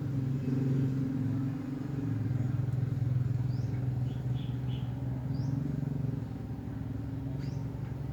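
Steady low engine drone, loudest through the first three quarters, with a few faint, short bird chirps over it.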